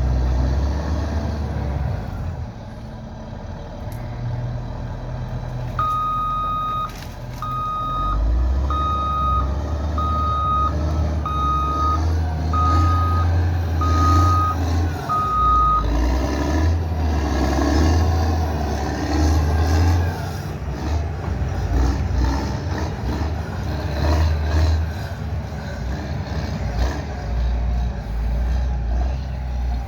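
Heavy vehicle's diesel engine running with a low rumble. A reversing alarm beeps eight times at an even pace, about one beep every 1.2 seconds, starting about six seconds in and stopping about sixteen seconds in.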